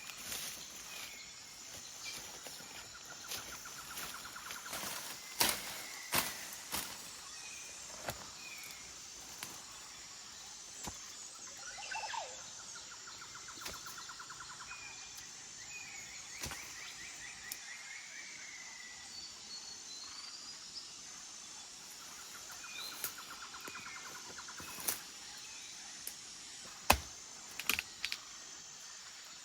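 Forest ambience: birds chirping, with a fast trill repeated three times, over a steady high-pitched pulsing insect drone. Scattered sharp clicks and knocks, the loudest a few seconds before the end.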